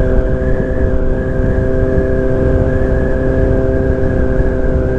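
2023 Kawasaki Z900's inline-four engine running at a steady speed while riding, with wind rumble on the microphone.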